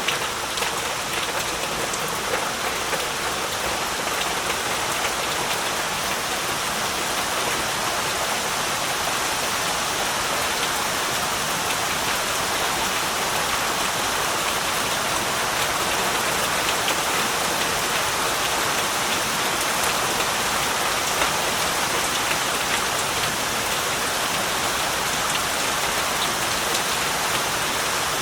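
Heavy rain falling steadily, a dense even hiss of drops with scattered individual patters.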